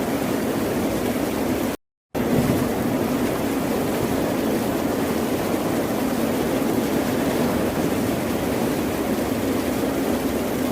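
Steady wash of ocean surf with no distinct breaks between waves. About two seconds in it cuts out to dead silence for a fraction of a second, then carries on unchanged.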